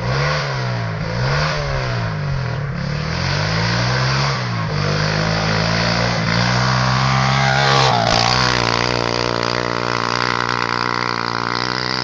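Pit bike engine revved in short repeated blips, about one a second, then held at a steady speed, rising briefly about eight seconds in.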